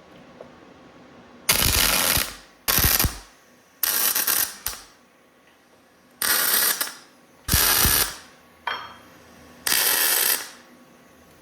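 Six short bursts of metal-fabrication tool noise, each about half a second to a second long, starting abruptly and trailing off briefly.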